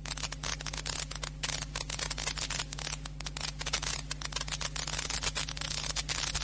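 Dense, irregular crackling clicks over a steady low hum: electrical crackle and hum in the sermon recording during a pause in speech.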